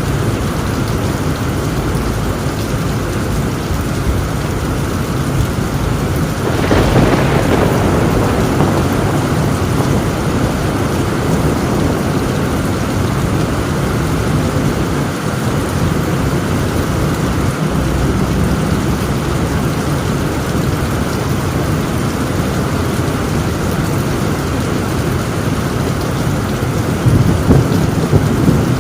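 Heavy rain falling on a tin roof in a steady rush, with thunder breaking about seven seconds in and rumbling away, and another burst of thunder near the end.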